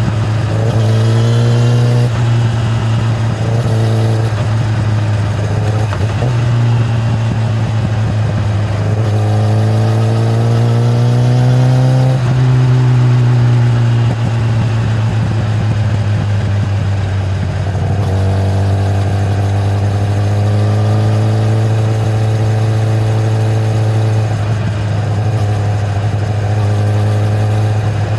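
Kawasaki ZX-10R inline-four engine through its stock exhaust under way, its pitch climbing slowly under throttle in three long stretches and dropping back in between.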